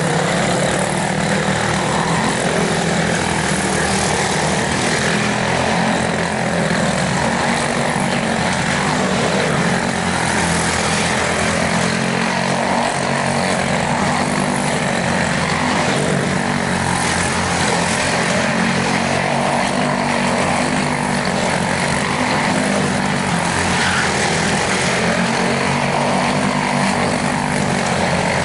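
Quarter midget race cars' unrestricted Briggs & Stratton Animal single-cylinder engines running steadily at racing speed.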